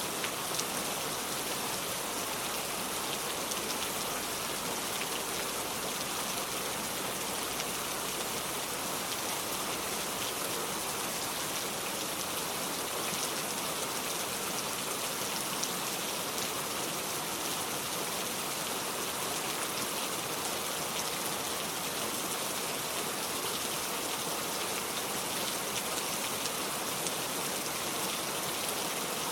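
Steady rain falling, a dense patter of small drops.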